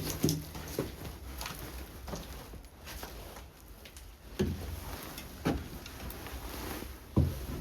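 Slow, irregular footsteps and knocks on a floor: a few separate thuds, the loudest near the end, over a low steady rumble.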